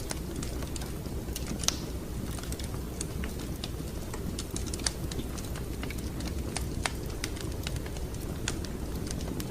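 Wood fire in a fireplace crackling: scattered sharp pops and snaps at irregular intervals over a steady low rumble of the burning fire, with one louder pop a little under two seconds in.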